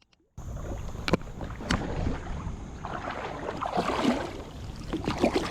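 Kayak on the water: water splashing and lapping against the hull over a steady wind rumble on the microphone. Two sharp knocks come a little over a second in, and the sound starts after a brief near-silent gap at the very start.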